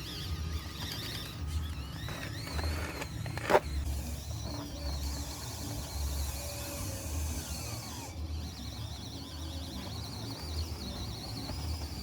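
Small electric motors of radio-controlled construction models whining, with a wavering high pitch, and a single sharp knock about three and a half seconds in.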